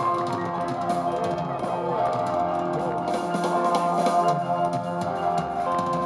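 Live band playing rock music, with a drum kit keeping a steady beat under guitar.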